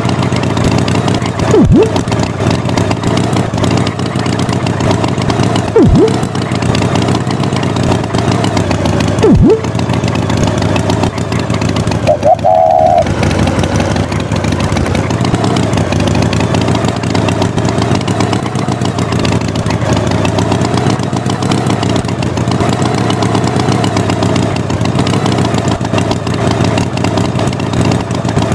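A vehicle engine running steadily, as a cartoon sound effect. Three short falling-pitch sounds cut through it, evenly spaced a few seconds apart, and a brief warbling tone comes near the middle.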